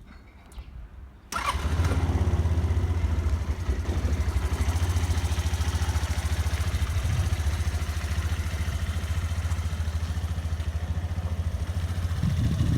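Suzuki Address V125 four-stroke single-cylinder engine, swapped into an Italjet Formula 125 scooter, starting about a second in and then idling steadily with a low, even pulse. It grows louder near the end.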